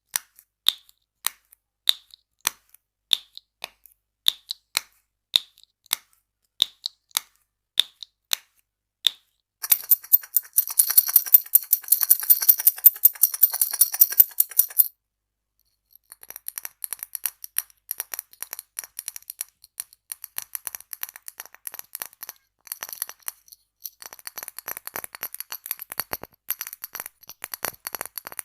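Close-miked ASMR tapping on small objects: single sharp taps about two a second for the first nine seconds, then fast continuous tapping and rattling until about fifteen seconds in. After a brief pause comes fast, lighter clicking and clinking to the end.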